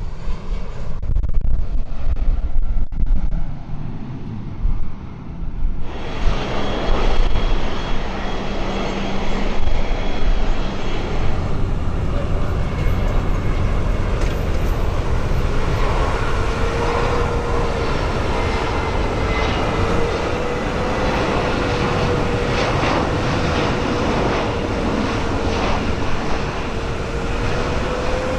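Aircraft engines running: a low rumble that opens out abruptly into a fuller roar about six seconds in, with a steady whine rising and then holding from about halfway.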